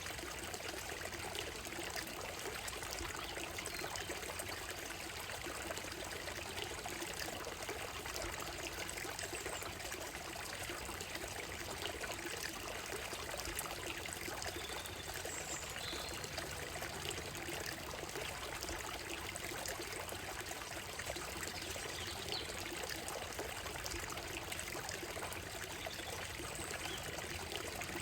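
Shallow stream running over a gravel and stone bed, with a steady trickling and babbling flow.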